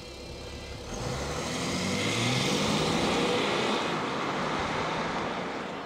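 A BMW SUV's engine revving up as the car pulls away and accelerates, rising in pitch and growing louder, then fading as it drives off.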